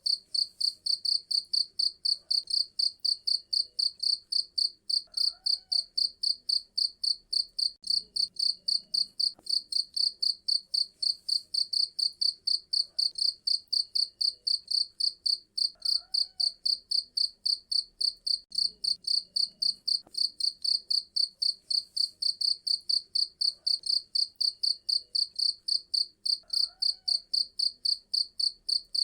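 Cricket chirping steadily in a fast, even train of high-pitched pulses, about four a second.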